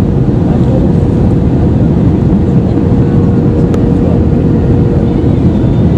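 Steady loud rumble of an Airbus A320-214's cabin, from its CFM56 jet engines and the airflow, with a faint steady hum running through it.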